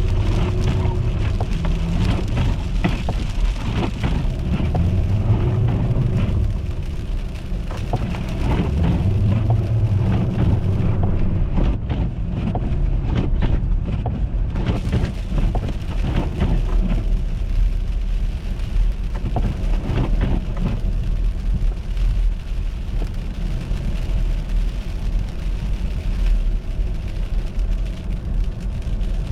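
A car driving on an icy, slushy road: steady low rumble of road noise with constant crackling from tyres over ice and slush. Near the middle the high hiss briefly drops away.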